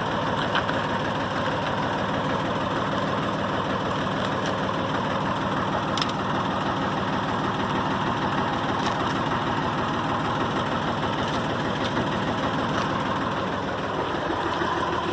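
Massey Ferguson 231 tractor's diesel engine idling steadily, with a faint click now and then.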